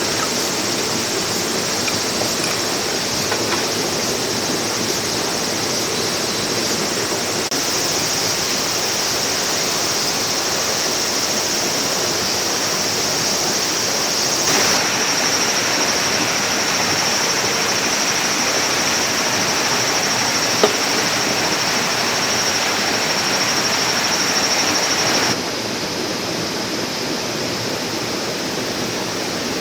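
A clear mountain stream rushing over rocks, a steady even rush of water. Its loudness jumps up or down abruptly a few times, about 7 seconds in, about halfway and near the end.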